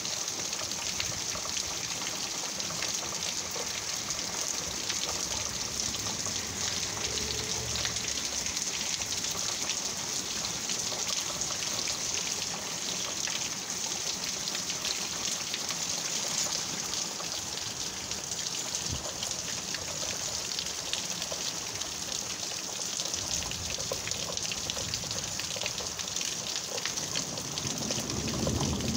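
Steady heavy rain: a dense hiss with countless close drops pattering on surfaces. A low rumble of thunder swells near the end.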